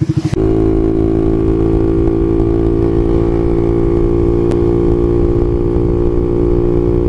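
Yamaha Mio scooter's engine running through an aftermarket racing exhaust silencer, coming in suddenly about half a second in and then holding a loud, steady engine speed.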